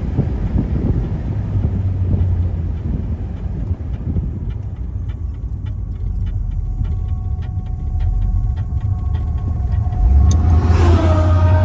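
V8 of a 1966 Pontiac GTO convertible running as the car is driven. Wind noise fades about four seconds in, and a regular clicking runs through the middle. About ten seconds in the engine grows louder as it pulls away.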